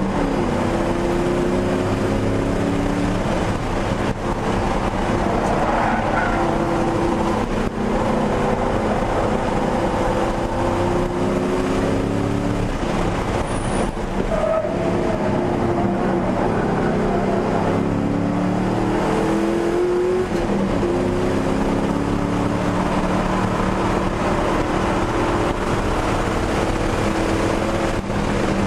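1999 Ford Mustang GT's 4.6-litre V8 heard from inside the cabin under hard track driving. The engine note climbs and drops again and again as it accelerates, shifts and lifts, over steady road and wind noise.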